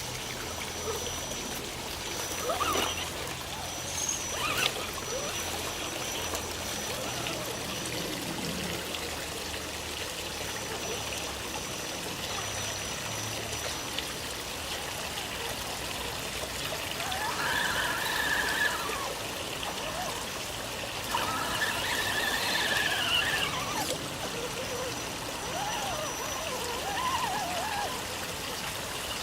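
Water running steadily, like a small stream trickling. Twice, about two-thirds of the way through, a brief wavering tone rises above it.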